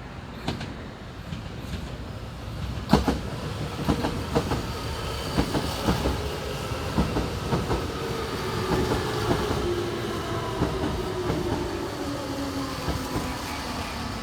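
Electric commuter train running past, its wheels clicking over rail joints in quick groups over a low rumble. A motor whine falls slowly in pitch through the second half.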